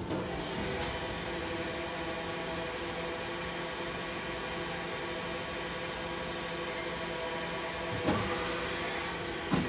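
Hasegawa CNC machine tool running with a steady mechanical hum and whine over a hiss, with two short knocks about eight and nine and a half seconds in.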